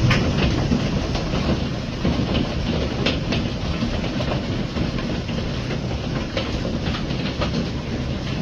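Hailstorm with heavy rain and wind: a steady rushing din with scattered sharp clicks of hail or rain striking hard surfaces.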